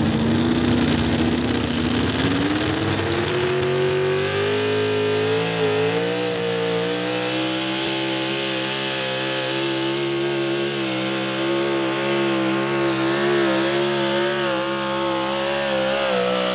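Outlaw 4x4 pulling truck's unlimited-cubic-inch engine at full throttle, hauling a weight-transfer sled. The engine's pitch climbs over the first four or five seconds, then holds high and steady with a slight waver.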